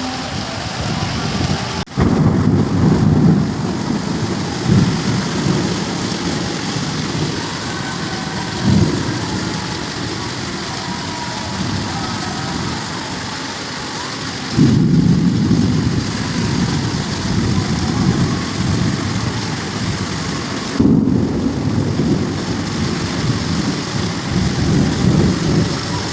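Heavy rain hissing steadily through a thunderstorm, with thunder rumbling again and again. The loudest claps break in suddenly about two seconds in, about fifteen seconds in and about twenty-one seconds in, each rolling on for several seconds.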